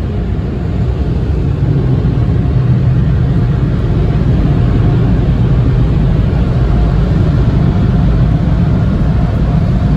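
Tommy's Express tunnel car wash air dryers blowing over the car: a loud, steady rush of air that grows a little louder about a second and a half in.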